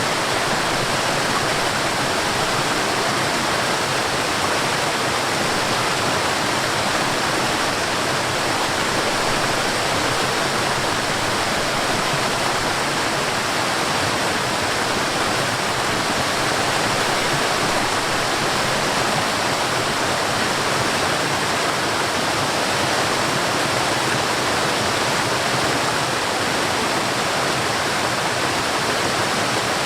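Forest waterfall: falling water rushing in a steady, even hiss with no change.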